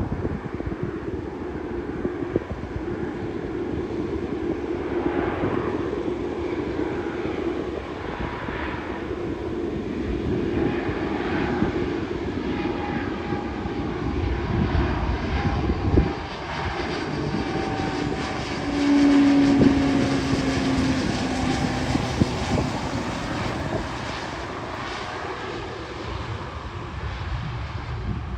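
Twin Garrett TPE331 turboprop engines of a CASA C-212-200 landing: a steady propeller drone whose tones slide down in pitch in the second half. The sound is loudest a little past the middle, with one short knock just before that.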